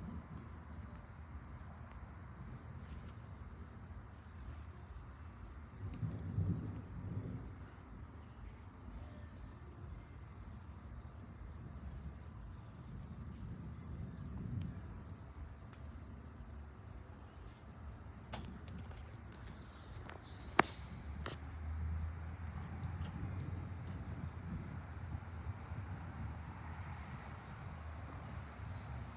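Steady, high-pitched chorus of crickets, with a few low rumbles of distant thunder, the longest in the second half. One sharp click sounds a little past the middle.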